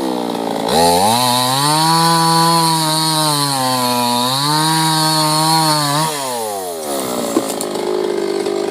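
Small two-stroke chainsaw engine revving: the pitch climbs and holds high, dips briefly, climbs and holds again, then falls back toward a low idle about seven seconds in.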